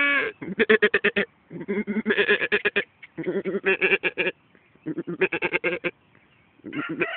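Miniature donkey braying: four loud, pulsing bursts of about a second each with short breaks between them.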